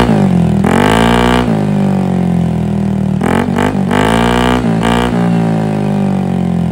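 Motorcycle engine breathing through an aftermarket Akrapovic-style slip-on exhaust with its removable silencer insert fitted, revved up in several blips and dropping back to idle between them.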